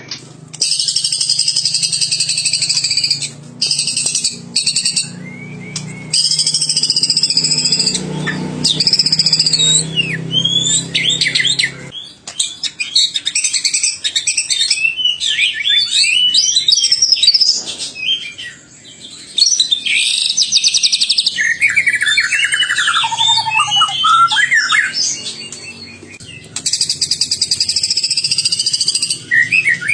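A songbird singing in long, fast runs of varied whistles, trills and harsh buzzing phrases, with short breaks between runs; a faint low hum sits under the first part.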